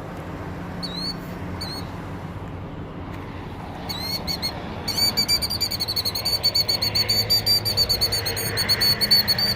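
Killdeer calling: a few separate high notes, then from about five seconds in a fast, unbroken trill of repeated notes. This is the alarm call a killdeer gives while it acts wounded to draw intruders away from its eggs.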